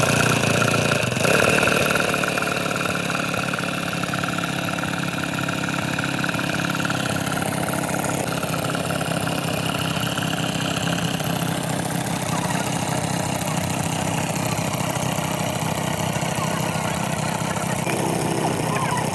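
An engine idling steadily at a constant pitch.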